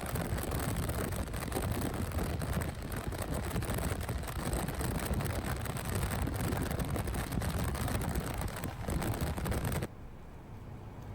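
Storm wind rushing and buffeting through an open car window, with wind noise on the microphone. It cuts off abruptly about ten seconds in, leaving a faint hiss.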